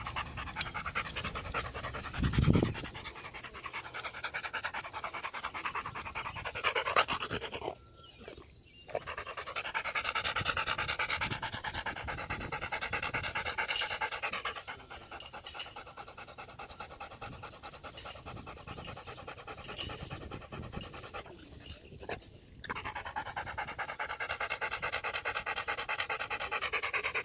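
A dog panting rapidly and steadily close to the microphone, pausing briefly twice.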